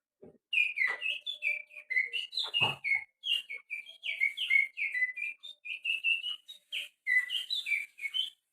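White-rumped shama (murai batu) song imitated by whistling through the little finger: a fast, varied string of high chirping whistled notes with short gaps, starting about half a second in. A brief low thud comes between the second and third seconds.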